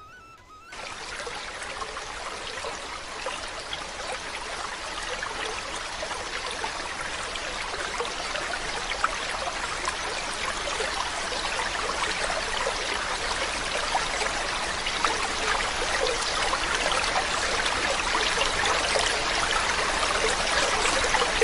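Running water rushing steadily. It starts about a second in, grows slowly louder, and cuts off suddenly at the end.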